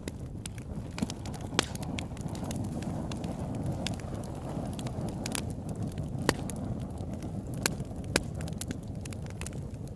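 Campfire burning: a steady low rumble of flames with irregular sharp crackles and pops of burning wood, a few of them louder than the rest.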